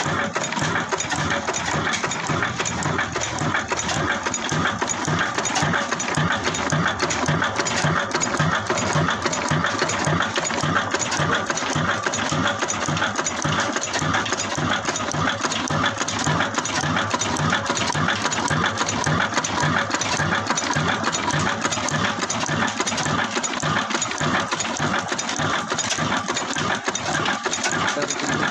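Desi 'kala' diesel engine, a slow-running single-cylinder type, running steadily with a slow, even firing beat and a clattering mechanical noise over it.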